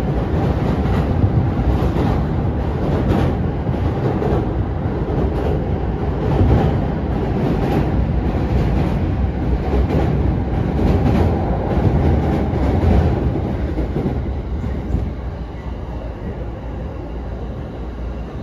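A passenger train running on the rails: a steady rumble with a rhythmic clickety-clack of the wheels over the rail joints. It grows somewhat quieter near the end.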